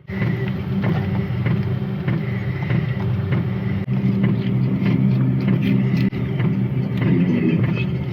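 Van engine running steadily, a continuous low hum.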